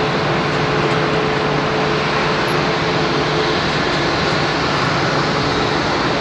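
Jet airliner's engines running as it taxis: a loud, steady rushing noise with a faint steady tone that fades out about halfway through.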